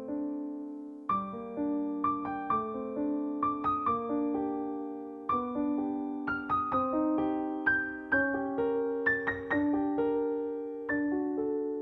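Background music: a slow, gentle piano melody, notes struck and left to ring over a soft bass line.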